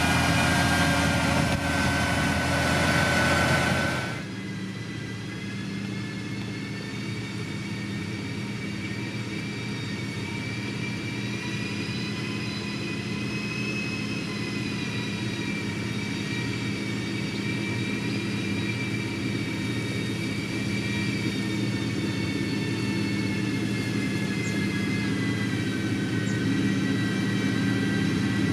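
Diesel engine of heavy road-building machinery running steadily, with a high whine over it. About four seconds in the sound changes abruptly to a somewhat quieter, steadier engine note.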